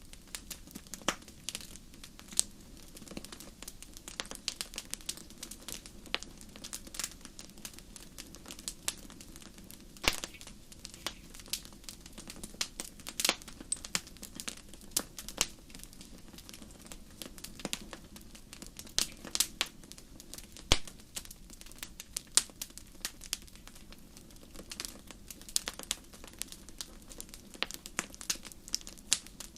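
Wood campfire crackling: irregular sharp pops and snaps, several a second, over a steady low hiss of the burning fire.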